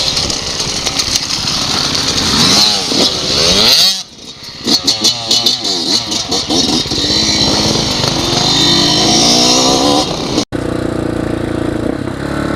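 Dirt bike engines revving hard, the pitch climbing and dropping through the gears, across short clips that cut off abruptly about four seconds in and again near the end.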